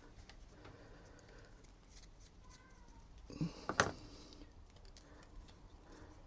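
Faint handling sounds of small objects being picked up and set down: a short cluster of small clicks and a brief rustle about three and a half seconds in, otherwise quiet room tone.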